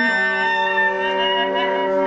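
Group of musicians improvising together at full volume, several instruments holding overlapping notes that shift in pitch every second or so.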